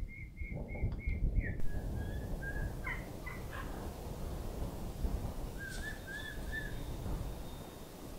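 A bird calling in quick runs of short, repeated high notes: one run at the start and another near the end, with a few separate notes between. A low, uneven rumbling noise runs underneath.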